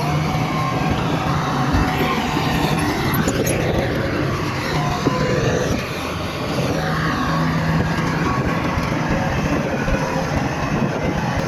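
Bulldozer's diesel engine running under load, with its pitch rising and falling a little as it works.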